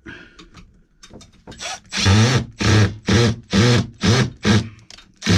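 Cordless drill/driver driving a sheet-metal screw into a refrigerator mounting bracket, its motor pulsed on and off in about seven short bursts, roughly two a second, as the screw resists going in.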